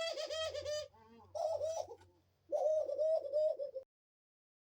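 Pet dove calling in three bouts of rapid, pulsing notes with short pauses between them. The last bout cuts off suddenly.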